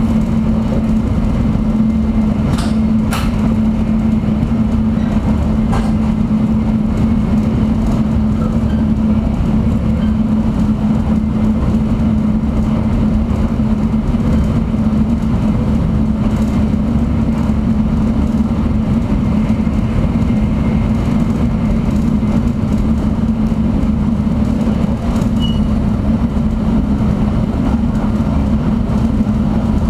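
Shinkansen bullet train running at speed, heard inside the passenger car: a steady rumble with a constant low hum, and a few faint clicks in the first few seconds.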